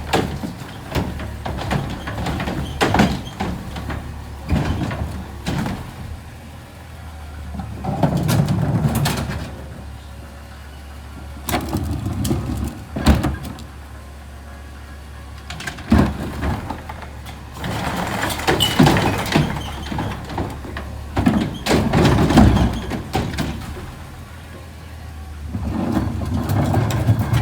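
Garbage truck's engine running steadily, swelling several times for a second or two, with a series of sharp bangs and clatter as it works.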